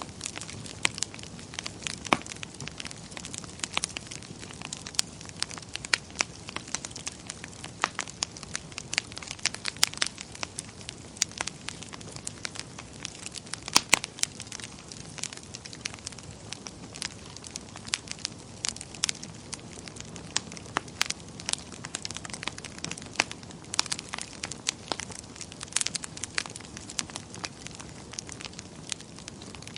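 Wood fire crackling steadily, with frequent sharp pops and snaps over a low hiss.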